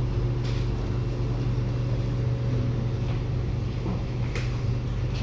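Steady low hum inside a Kawasaki Nippon Sharyo C751B metro car standing at a station platform, with faint rattles over it.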